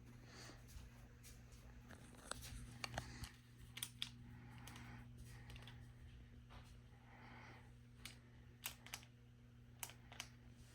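Scattered plastic clicks of a ceiling-fan remote's buttons being pressed again and again, with bunches of clicks about two to four seconds in and again near the end. The remote is not responding because its original batteries have died. A faint steady hum from the 52-inch GE Kaiden ceiling fan's motor runs underneath.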